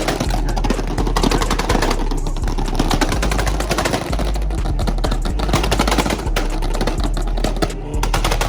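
A car engine held on a two-step launch limiter, its exhaust popping in a fast, continuous crackle of bangs.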